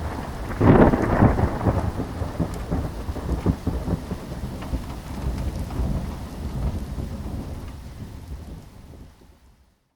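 Thunderstorm sound effect: a loud rumble of thunder about a second in over steady rain, the rain fading out near the end.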